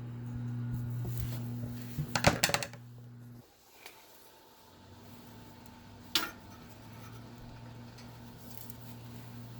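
Small metal parts of an antique electric fan clinking and tapping as it is taken apart: a quick cluster of clinks a couple of seconds in and a single click near the end. A steady low hum runs underneath, dropping away for a moment about a third of the way through.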